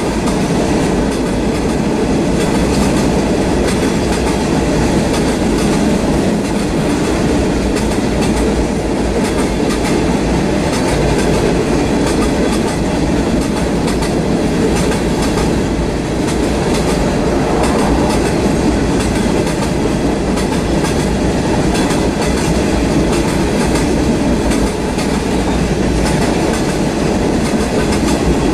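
Freight train cars, tank cars among them, rolling steadily past with a continuous rumble and a run of clicks as the wheels cross rail joints.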